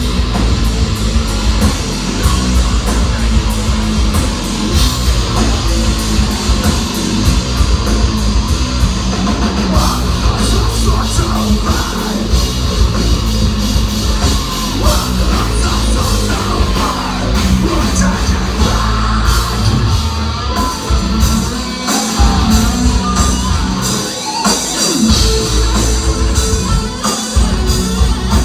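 Heavy metal band playing live: distorted electric guitars, drum kit and singing. The bass drops out briefly a few times near the end.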